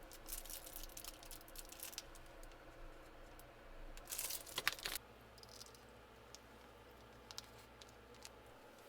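Crinkling and tearing of packaging being handled and torn open, in two spells of rustling, the louder one about four seconds in, followed by a few faint clicks.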